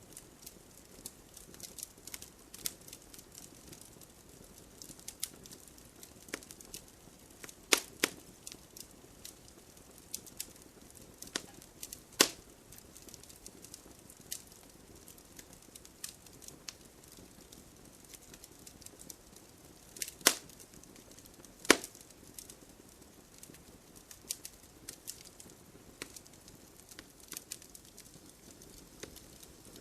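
Wood campfire crackling: a steady run of small ticks and snaps with a few much louder sharp pops, two close together about eight seconds in, one near twelve seconds and two more around twenty and twenty-two seconds.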